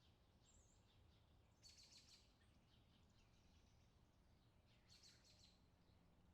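Faint birdsong: a short high chirp about half a second in, then two brief rapid trills, about two seconds in and about five seconds in, over a faint steady low background noise.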